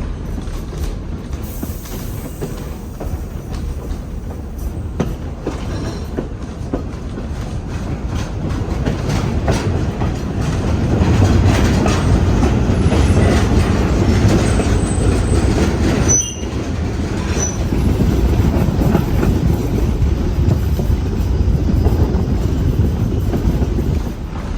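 Train running along the track, heard from aboard: a steady rumble of wheels on rail with clicking over the rail joints, growing louder about ten seconds in.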